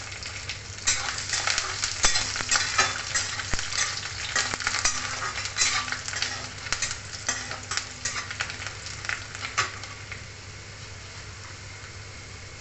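Garlic cloves and whole spices frying in hot oil in a metal kadai, crackling and sizzling while a steel spatula stirs them. About ten seconds in the popping dies down to a quieter, steady sizzle.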